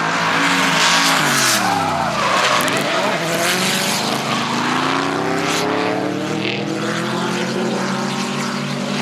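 BMW E46 M3 with a V10 engine from an M5 drifting, tyres sliding with a steady hiss. The engine's revs drop sharply about a second in, then climb slowly and steadily.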